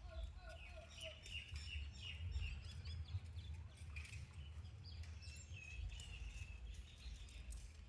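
Faint, short, high chirping calls repeated at irregular intervals, some dropping in pitch, over a low steady rumble with a few soft clicks.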